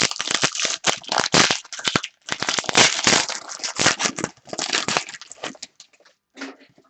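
Prizm basketball card pack's wrapper being torn open and crinkled by hand, a run of irregular crackling rustles that stops about five and a half seconds in, with one last short rustle near the end.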